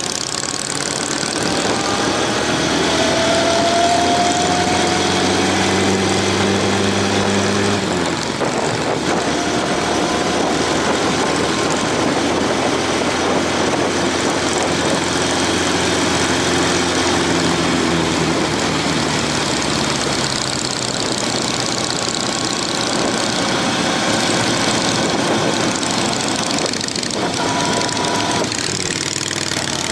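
Motorcycle engine running under way, its note holding steady and then dropping and changing several times as the throttle and gears change, over a steady rush of wind noise.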